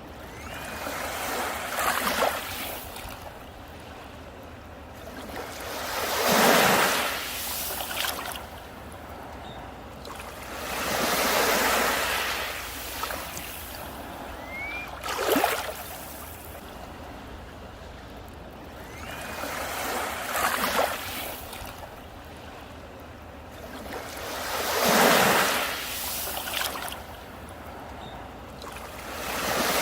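Sea waves breaking and washing up a beach, a surge every four to five seconds that swells and then falls away.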